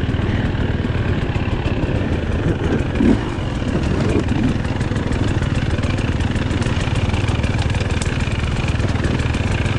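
GasGas EC300 two-stroke dirt bike engine running steadily at low revs, with a brief swell about three seconds in.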